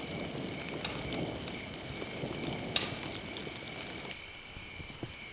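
Burgers and bacon sizzling over a campfire, with a few sharp crackles and a steady high-pitched hum underneath.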